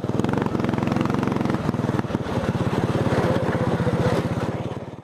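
Racing lawn tractor's small engine running under way, a steady rapid stream of firing pulses that eases briefly about two seconds in and fades out right at the end.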